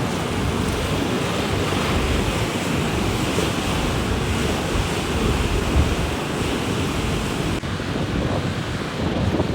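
Strong storm wind gusting and buffeting the microphone: a low, irregular rumble under a steady rushing hiss. Near the end the hiss turns duller.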